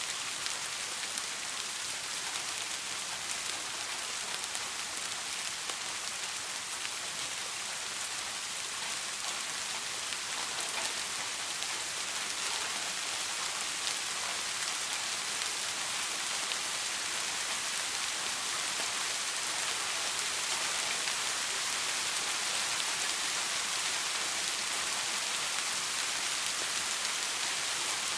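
Soft rain falling steadily: a dense, even hiss of many fine drops, growing slightly louder in the second half.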